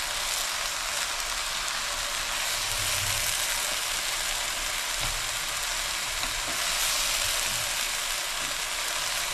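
Fried rice sizzling steadily in a nonstick wok, with light scrapes from a steel spatula as the rice is tossed and mixed.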